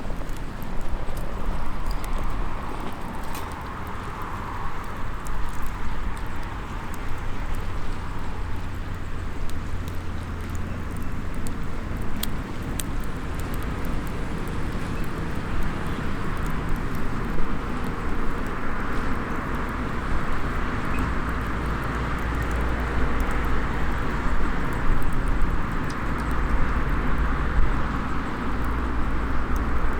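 Steady seaside ambience with a low rumble that swells slowly, with a few faint snaps from a small wood fire.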